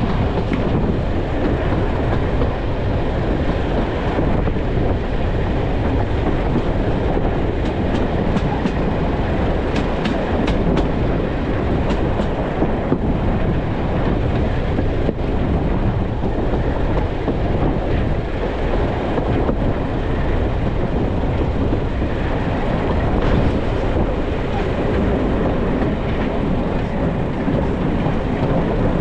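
Diesel-hauled heritage train running along the line, heard from an open carriage window. The wheels keep up a steady rumble on the rails, with a few light clicks about a third of the way through.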